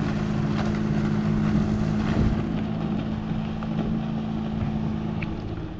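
Engine of a motorized watercraft, such as a Wave Runner, running with a steady drone that eases off slightly near the end.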